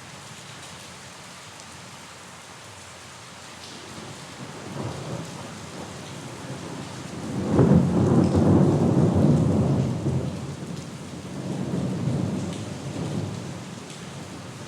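Steady rain falling, with a roll of thunder: a low rumble builds, breaks into a loud sudden clap about halfway through, then rolls on in fading rumbles near the end.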